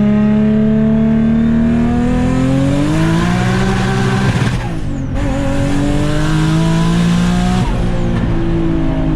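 Turbocharged 2004 Infiniti G35 Coupe's VQ35 V6 under acceleration. The engine climbs in pitch, drops briefly about four and a half seconds in as it shifts, climbs again, and backs off near the end. It has an exhaust leak before the turbo, which the owner says is bleeding off boost and makes the car sound bad.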